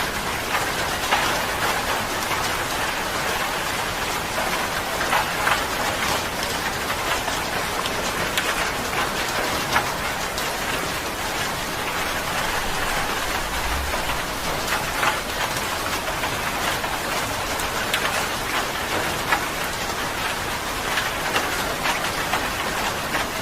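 Steady rain falling on a surface, a continuous patter with distinct drops ticking through it.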